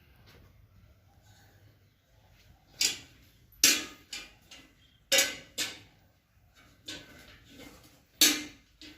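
A series of short, sharp clattering knocks, about eight at irregular intervals, starting about three seconds in.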